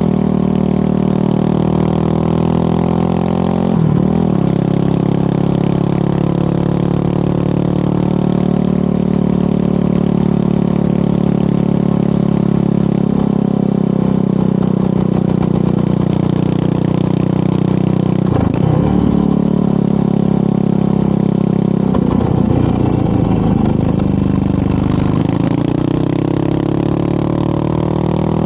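Yamaha WR250R single-cylinder motorcycle with an FMF PowerCore 4 aftermarket muffler, running under way with steady engine and exhaust sound. The revs dip and pick up again a few times as it changes gear.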